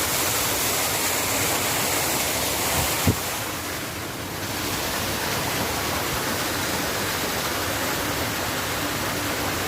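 Tiered garden waterfall: water cascading down the tiers and splashing steadily, a full, even rushing hiss. A single short click about three seconds in.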